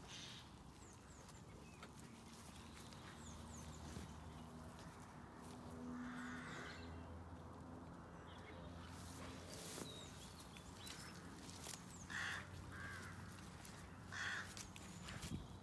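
Several short, harsh bird calls like crow caws: one about six seconds in and three more close together near the end, over faint outdoor ambience with a low steady hum.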